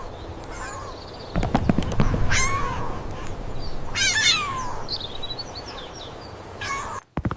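Cat meowing: two drawn-out, wavering high cries, about two and four seconds in, with a few low thumps just before the first.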